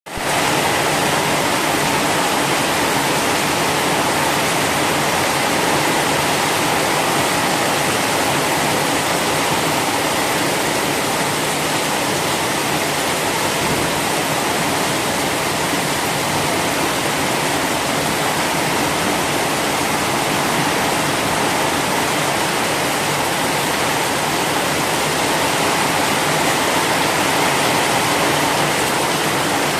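Heavy rain pouring down steadily, a dense, even hiss with no breaks, fading in quickly at the start.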